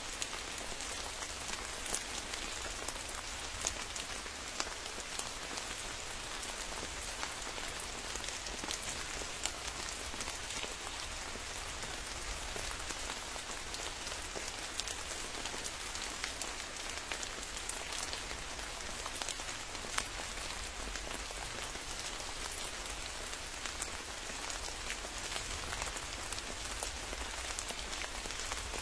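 Steady rain falling, with many sharp individual drop hits scattered through it.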